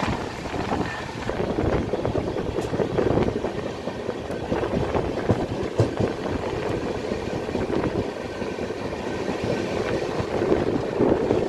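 Running noise of a passenger train heard from inside a coach at the window: a steady rumble of wheels on the rails with irregular knocks and rattles.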